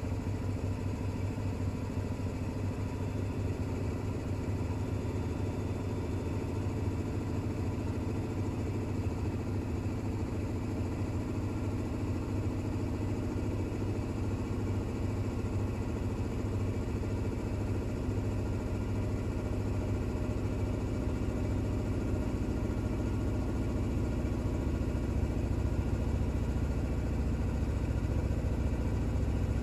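Bosch WAX32GH1 front-loading washing machine drum spinning steadily during an intermediate spin with an unbalanced towel load, a steady hum over a low rumble that grows slightly louder toward the end.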